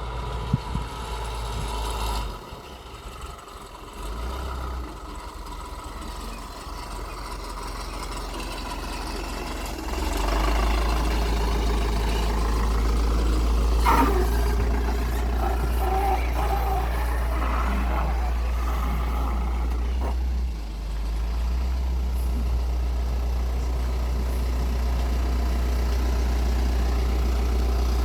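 Diesel engine of a Toyota-built DMV road-rail bus running steadily, getting louder about ten seconds in, with a sharp knock around fourteen seconds.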